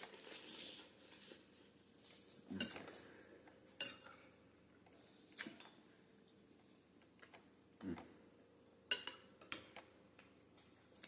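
Eating utensils clinking and knocking against a dish: a handful of short, scattered clinks with quiet between them.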